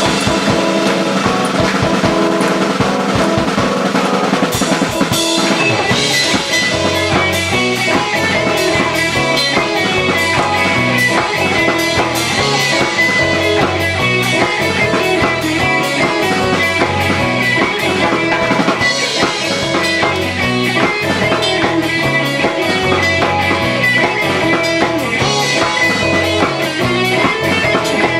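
A rock band playing live, with drum kit, electric guitar and bass; the full band comes in about five seconds in.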